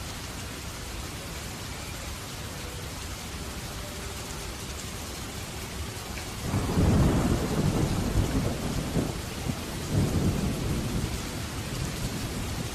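Steady rain falling, with a peal of thunder breaking in about halfway through, rumbling in two surges before dying down.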